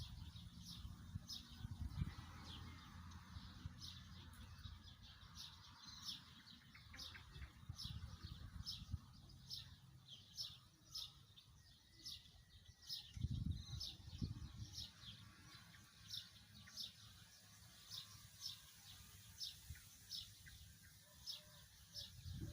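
A small bird chirping over and over at an even pace, about three short high chirps every two seconds, with low wind rumble on the microphone rising and falling.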